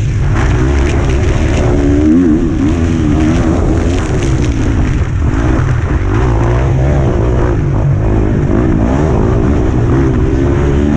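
125cc two-stroke motocross bike engine, heard onboard, revving up and falling back again and again as the rider works the throttle and gears around the track.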